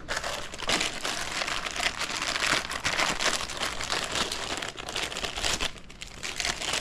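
Plastic packaging crinkling and rustling continuously, full of small crackles, as new handlebar grips are unwrapped and handled.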